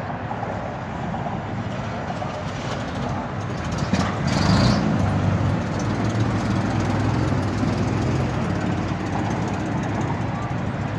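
A motor vehicle's engine running nearby, a steady low rumble that grows a little louder about four seconds in, with a brief high hiss at that point.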